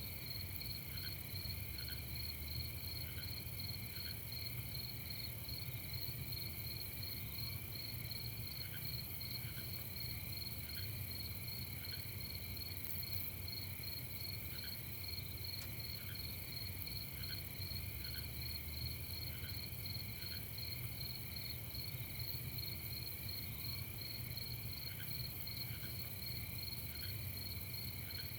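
Night chorus of crickets: a steady, finely pulsing high trill at two pitches, with a few short, lower chirps scattered through it and a low rumble underneath.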